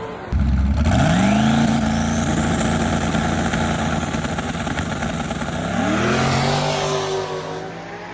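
A drag-racing vehicle at full throttle down the strip. The engine note climbs and holds while a high whine rises steadily, the engine note rises again about six seconds in, and then the sound fades away as the vehicle pulls off.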